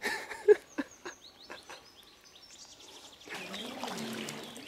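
A bird calls with a quick run of short, falling chirps. About three seconds in, water starts sloshing and splashing as an inflatable boat is dragged through a shallow river.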